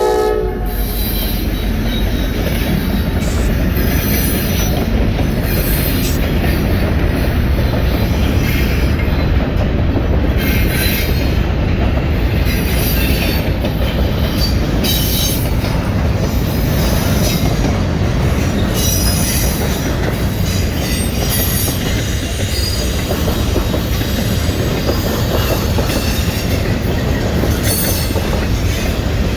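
A train passing close by: a loud, steady rumble and clatter of wheels on the rails, with brief high squeals flickering over it. A horn chord cuts off just at the start.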